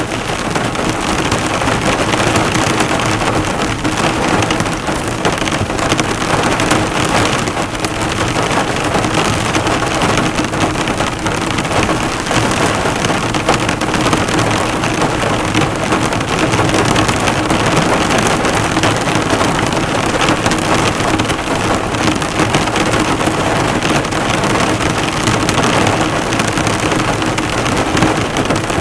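Heavy rain drumming steadily on a car's body, dense drops striking the bonnet in a continuous patter.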